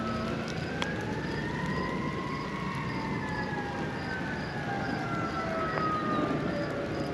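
A siren wailing: one slow rise in pitch over about two and a half seconds, then a long slow fall.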